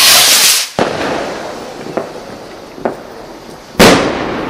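Fireworks going off: a loud hissing rush that cuts off abruptly just under a second in, then a bang, a couple of faint pops, and another sharp bang near the end.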